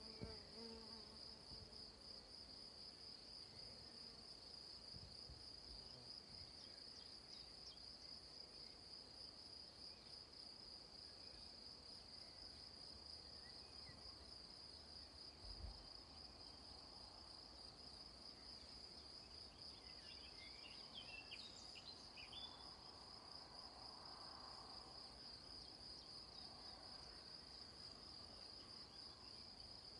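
Faint, steady chorus of crickets trilling high and evenly, with a few short higher calls about two-thirds of the way through and a soft low thump about halfway.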